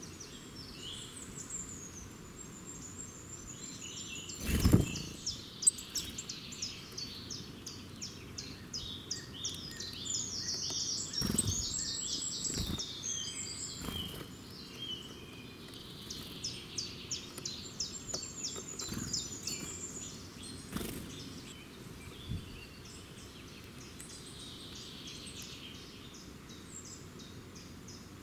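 Wild birds chirping and singing, with rapid runs of high, repeated chirps and trills. A few sharp knocks cut through, the loudest about five seconds in and others around eleven and twenty-one seconds.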